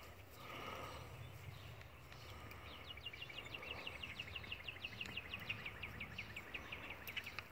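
A small bird sings a rapid trill of short, evenly repeated chirps, starting about three seconds in and stopping just before the end, over a faint low outdoor background rumble.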